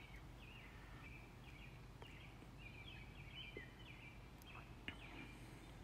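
Faint birdsong: a run of short, quick chirps and warbles over a quiet background with a low, steady hum.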